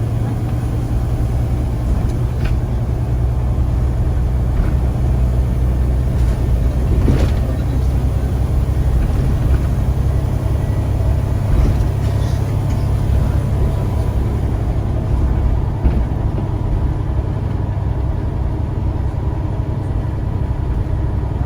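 Scania CN94UA single-decker bus running under way: a steady low drone from its diesel engine, with a few light knocks and rattles.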